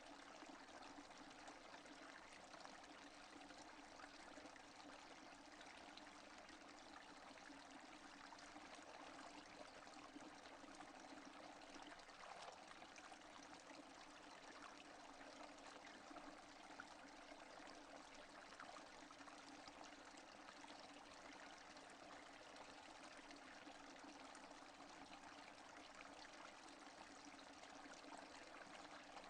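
Rain falling steadily, faint and even, with no thunder.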